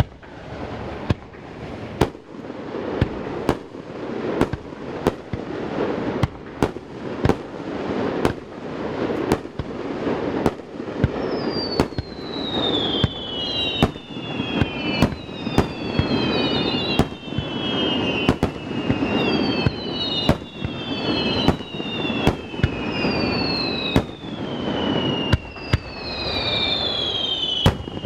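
Fireworks display: a quick run of sharp bangs, about one or two a second, over a continuous rumble and crackle, echoing off the surrounding mountains. From about halfway through, several overlapping high whistles fall in pitch between the bangs.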